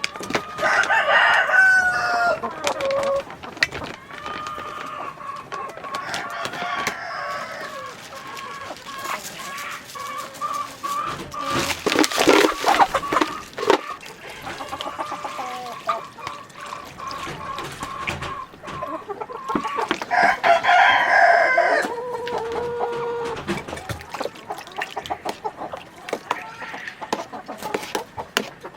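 Chickens clucking, with a rooster crowing twice: once at the start and again about twenty seconds in, the second crow ending in a long drawn-out note. Scattered small clicks and taps run throughout.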